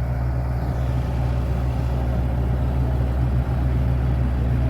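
Combine harvester engine running steadily with a low, even drone.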